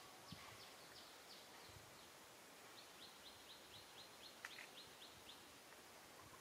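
Faint bird calling: two runs of short, high, downward chirps at about four a second, the second run longer. A single sharp click about four and a half seconds in.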